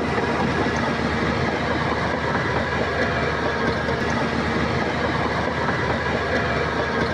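Crawler bulldozer at work: its diesel engine running under load with its steel tracks clattering steadily.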